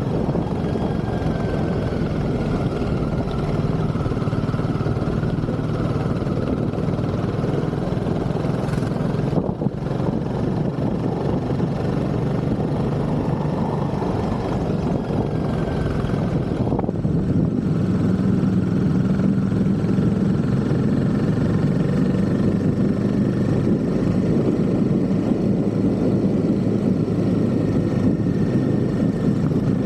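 Royal Enfield Himalayan 450's single-cylinder engine running steadily as the bike is ridden, with a brief dip about a third of the way through and a change in tone a little past halfway.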